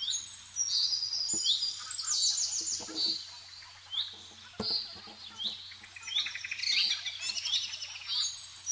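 A small songbird chirping, quick high chirps and trills repeating about once a second, with a few faint knocks.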